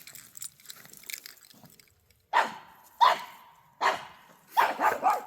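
Dog barking at an armadillo: five barks in irregular quick succession, starting about two seconds in.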